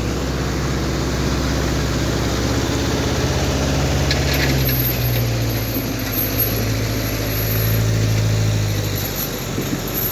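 A heavy truck's diesel engine running steadily at low revs, a low droning note that swells a little in the second half.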